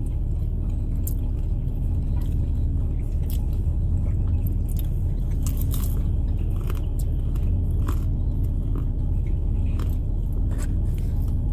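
Someone chewing food close to the microphone, with scattered small clicks, inside a car over the steady low rumble of its idling engine.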